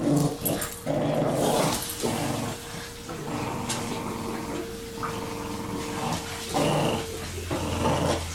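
Dogs growling in play during a game of tug, in rough bursts that come about once a second.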